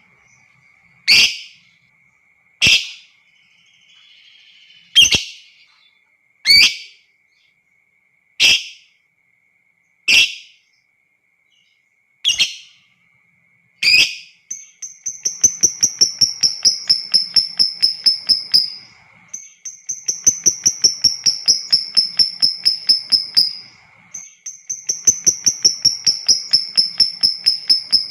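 Lovebird calling: eight sharp single shrieks a second or two apart, then from about halfway three long rapid chattering runs of high, slightly falling calls, about five a second and each lasting about four seconds, the long 'ngekek' of a lovebird in full song. A faint steady high whistle runs underneath.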